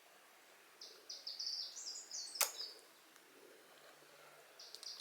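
A songbird singing a quick run of short, high chirping notes that step up and down for about two seconds, starting about a second in, with one sharp click partway through; the song starts again near the end.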